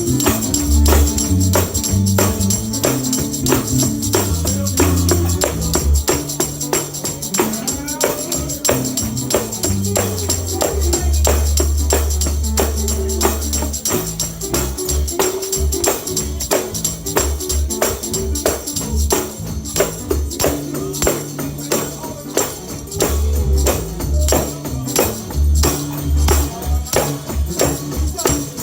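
Gospel music with a fast, steady tambourine beat over moving bass notes, an upbeat stretch with little or no singing.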